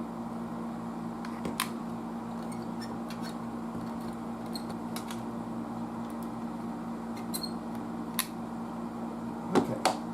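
Scattered light clicks and taps of small parts and tools being handled on a workbench, about half a dozen spread through, over a steady low hum.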